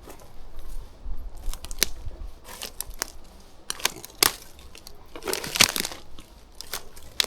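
Footsteps scrambling through forest undergrowth: irregular crunches and twig snaps, with a denser run of crunching about five and a half seconds in.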